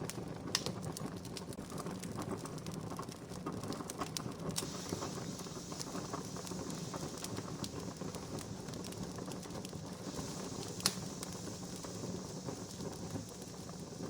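Wood campfire crackling: a steady hiss with many quick snaps and pops, two of them sharper, about half a second in and about eleven seconds in.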